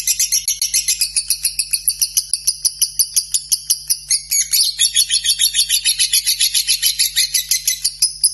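Lovebird singing a long unbroken chatter: rapid high-pitched pulses, about six or seven a second, running on without a break.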